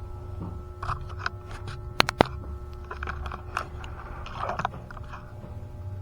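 Scattered scraping and rustling with a few clicks, two of them sharp and loud about two seconds in, over a steady low hum.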